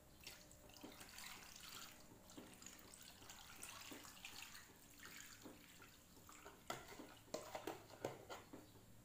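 Faint trickle of water being poured, followed by a few light clicks and knocks near the end.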